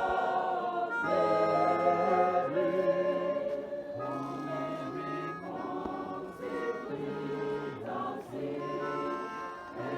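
A choir singing a hymn in long, held notes, with the chords changing every second or so.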